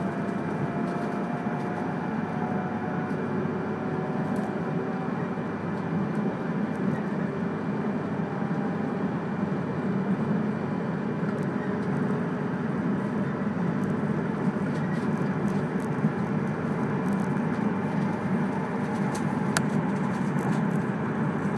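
Steady running noise heard inside an E3-series Akita Shinkansen Komachi train on the Ōu Line's conventional track: a dense rumble of wheels on rail. A faint tone glides slowly upward during the first half.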